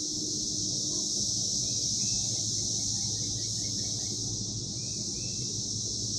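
Brood XIV periodical cicadas in full chorus: a steady, high-pitched drone that never lets up. A few faint short chirps come through in the middle, over a low rumble.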